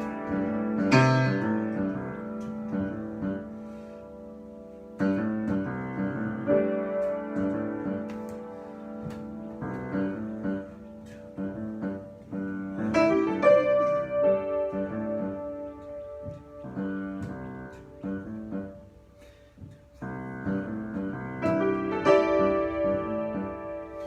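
Solo piano improvisation: chords and single notes struck and left to ring, in phrases that die away about four seconds in and again near twenty seconds before new phrases begin.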